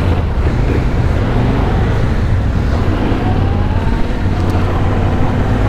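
Motorcycle engine running steadily while riding, a continuous low rumble under road and wind noise, with a faint rising whine about three seconds in.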